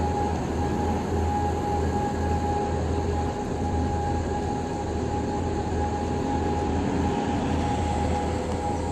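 Heavy truck's diesel engine running steadily: a low rumble with a steady high whine over it.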